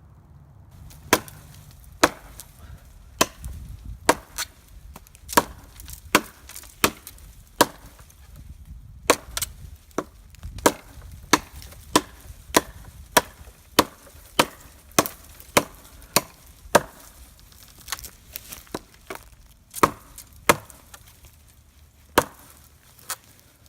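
Schrade bushcraft chopper knife chopping into wood, a long series of sharp strikes about one and a half a second, pausing briefly twice.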